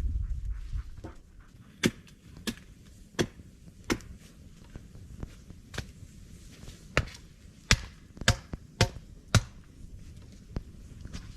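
A series of about ten sharp chopping blows, irregularly spaced and coming closer together in the second half, after a low rumble in the first second.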